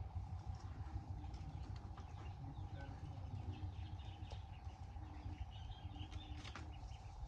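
Small birds chirping over a steady low outdoor background noise, with a brief click about six and a half seconds in.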